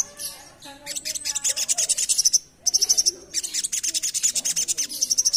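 Crimson sunbird (sogok ontong) singing a fast, high, chattering trill of rapid ticks in long runs, with brief breaks about two and a half and three and a half seconds in.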